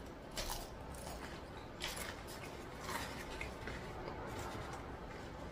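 Close-miked chewing of food, with a few soft, crisp crunches spaced about a second apart.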